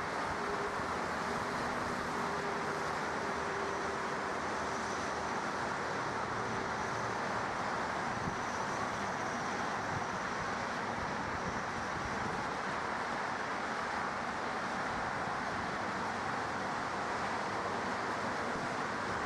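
Jet aircraft engine noise: a steady rushing sound with faint whining tones that drift slightly in pitch.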